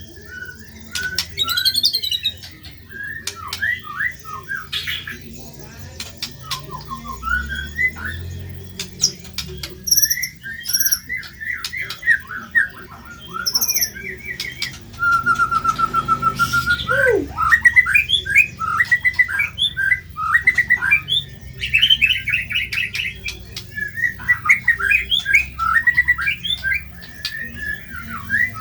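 White-rumped shama (murai batu) singing a varied song: rapid runs of short chirping notes, a few very high short notes, and one held whistle about halfway through.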